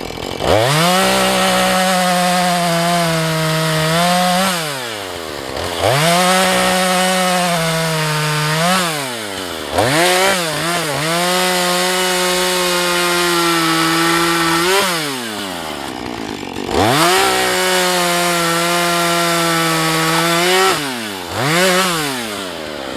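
Husqvarna 435 two-stroke chainsaw cutting wood at full throttle in four long runs of a few seconds each. Between runs it falls back toward idle, with a few quick blips of the throttle.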